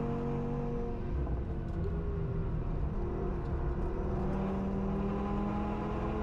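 Audi S1's swapped-in 2.5-litre five-cylinder RS3 engine heard onboard at speed. Its note holds steady, drops about a second in, then climbs slowly over the last couple of seconds.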